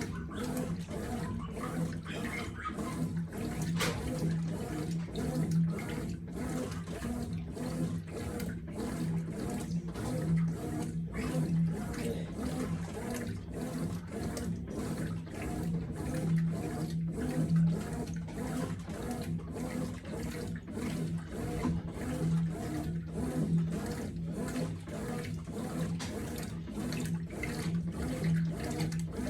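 Consul 9 kg CWB09BB washing machine running a wash with water in the drum: a steady motor hum with water and clothes sloshing in regular pulses.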